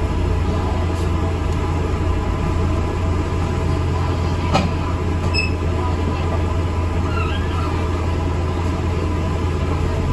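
Steady low engine and road rumble heard inside an ADL Enviro 400 MMC double-decker bus, with a brief click about halfway through.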